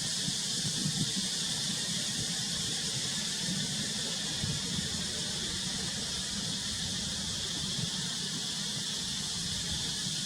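Steady high-pitched hiss that holds unchanged throughout, over an uneven low rumble.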